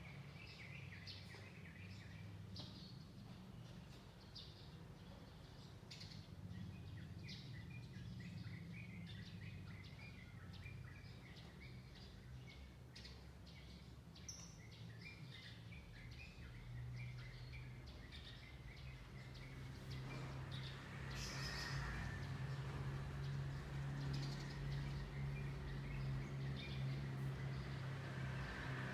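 Small birds chirping in quick short notes over a low background hum. About two-thirds of the way through, a louder low drone with a broader rush rises beneath the chirps and stays to the end.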